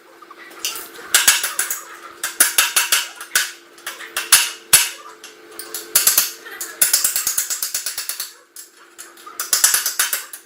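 Bursts of rapid mechanical clicking, like a ratchet, each lasting a second or so with short pauses between, over a faint steady hum.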